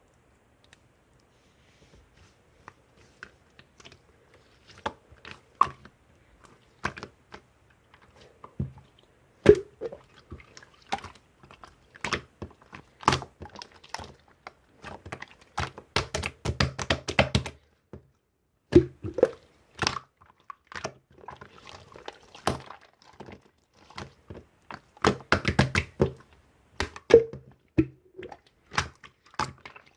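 Irregular thunks and sharp clicks in a small room, now single, now in quick flurries.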